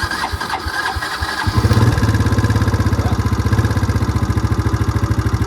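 Can-Am DS90 quad's 90cc engine being electric-started on a weak battery boosted by a charger: it cranks for about a second and a half, catches, and then idles with a steady fast pulse.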